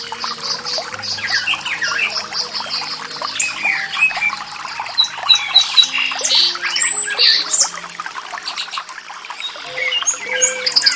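Several songbirds chirping and trilling in quick, overlapping calls, over soft held musical notes in the low range.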